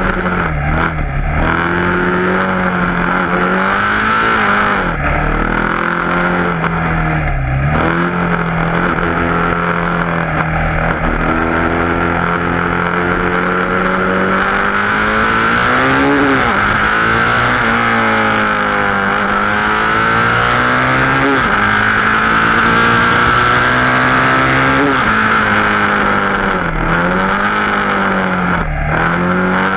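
KTM Duke 690's single-cylinder engine through an Akrapovic exhaust, heard from the bike while riding: revs climb and drop again and again, with short breaks at gear changes a few times. A steady rush of wind runs under it.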